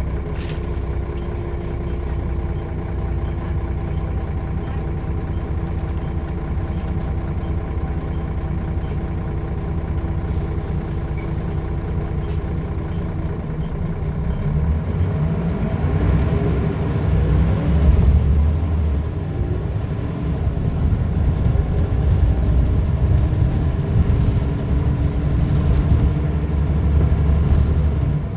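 Scania L94UB bus's engine running steadily, with a short air hiss about ten seconds in. About halfway through it pulls away, the engine pitch rising as it accelerates through the ZF automatic gearbox, then it runs on steadily.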